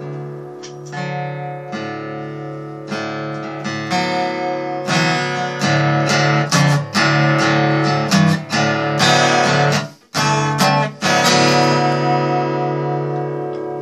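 Guitar being strummed, chords ringing with repeated strokes; the playing stops briefly about ten seconds in, then picks up again.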